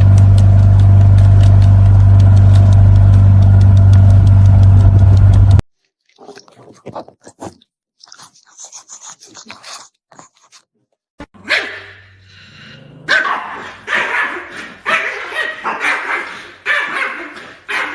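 A loud, steady droning noise for the first five seconds or so, cutting off suddenly. After a few seconds of faint scattered sounds, a dog barks over and over, about twice a second, through the last six seconds.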